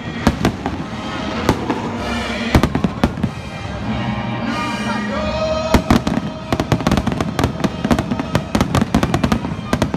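Fireworks display: aerial shells bursting with sharp bangs, scattered through the first half, then a rapid barrage of bangs and crackle from about six seconds in.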